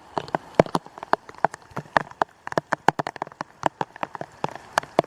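Heavy thunderstorm rain pouring down: many irregular, sharp drop impacts spattering over a steady hiss.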